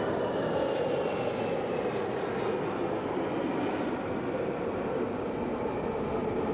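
Airbus A340's four CFM56 turbofan engines running as the airliner flies a slow pass, gear down at high angle of attack. A steady jet noise with a faint whine that falls in pitch over the first few seconds.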